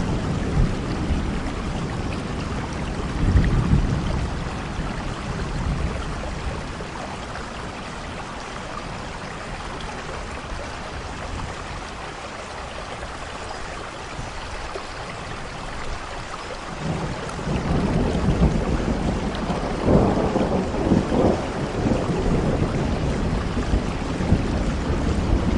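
Heavy rain falling steadily with rolling thunder. A rumble fades away in the first several seconds, then a louder roll of thunder builds from about two-thirds of the way through, crackling near its peak.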